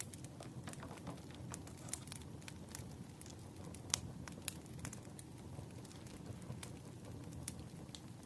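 Wood fire crackling: irregular sharp pops and snaps over a low steady rumble, with one louder pop about four seconds in.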